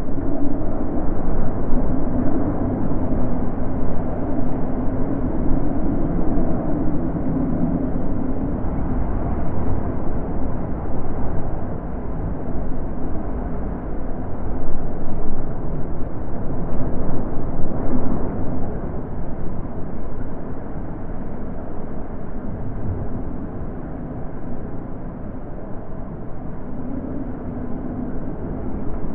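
Wind blowing in a steady low rush, swelling and easing in gusts, loudest about halfway through.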